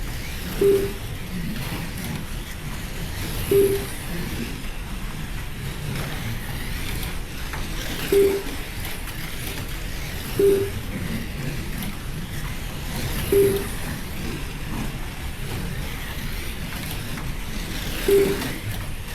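Slot cars running round the track under a steady whir, with the lap timing system giving a short beep each time a car crosses the line: six beeps, each car's beeps coming about ten seconds apart.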